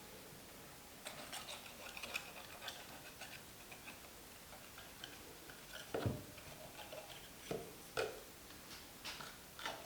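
Quiet kitchen handling sounds: scattered light clicks and taps, then a few sharper knocks spaced a second or two apart in the second half.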